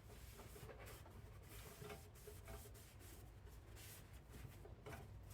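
Near silence with faint, scattered rubbing and scratching from hand work on the snowblower's gear selector mechanism.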